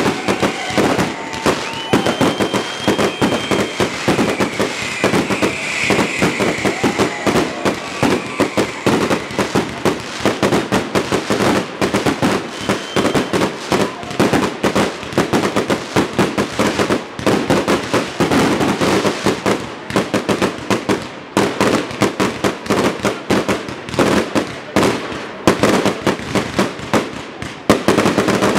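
Fireworks display: aerial shells bursting in a dense, continuous barrage of rapid bangs and crackling.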